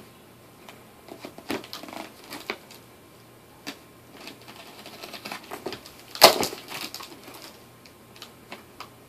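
Crinkling and clicking of a plastic shipping package being handled and opened, in scattered short crackles with one loud crackle about six seconds in.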